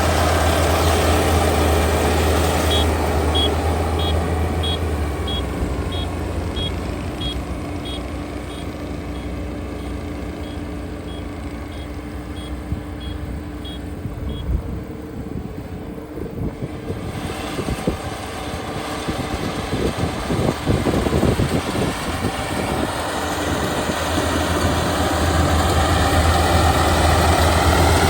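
Kubota ER572 combine harvester's 72 hp diesel engine running steadily, quieter in the middle and building up again near the end. For about the first half a high electronic beep sounds about twice a second, and a few rattling knocks come about two thirds of the way in.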